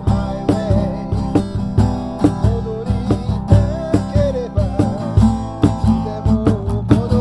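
Acoustic guitar strummed in a steady rhythm, with a wavering melody line over the chords.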